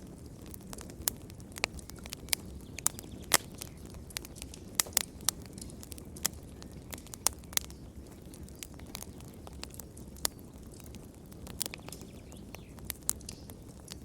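Fire in a fireplace crackling: irregular sharp pops and snaps over a low, steady rumble of the flames.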